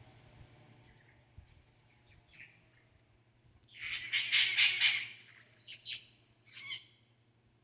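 A bird's harsh, rasping squawk lasting about a second, followed by three short calls.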